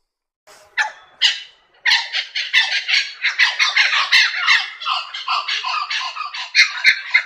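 Birds squawking: two harsh calls about a second in, then a dense, continuous run of rapid, overlapping harsh calls.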